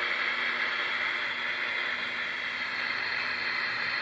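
Galaxy Saturn Turbo radio transceiver on receive with no station: steady static hiss from its speaker with a faint steady hum underneath. This is the normal receive sound after caps in its receive and audio section were replaced and it was readjusted.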